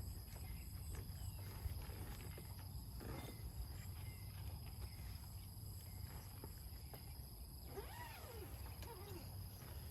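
Quiet outdoor countryside ambience: a steady high insect drone over a low rumble, with a few faint bird calls near the end.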